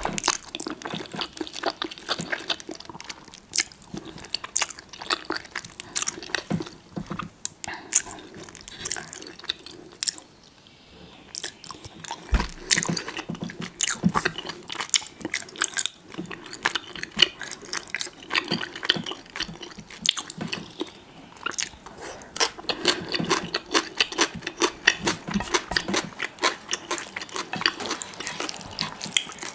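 A person eating a spicy noodle meal close to the microphone: wet chewing and biting, with dense irregular mouth clicks and occasional crunches. There is a brief lull about ten seconds in.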